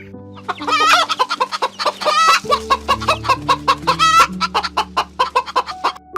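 Chickens clucking, a quick run of many short calls with a few louder drawn-out squawks, starting about half a second in. Soft background music with held notes plays underneath.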